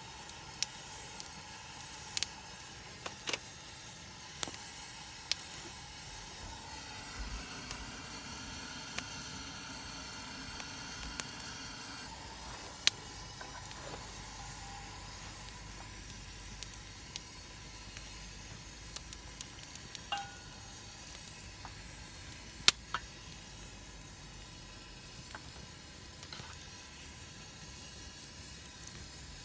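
Food frying in a pan: a steady sizzle with scattered sharp pops, the loudest about two-thirds of the way through.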